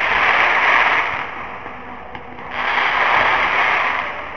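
Fireworks crackling in two swells, each lasting about a second and a half, with a single sharp pop in the lull between them.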